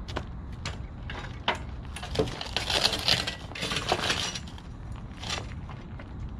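Rocks crunching and clinking under a person moving across them, in a string of separate crunches with a denser, louder stretch of crunching from about two to four seconds in.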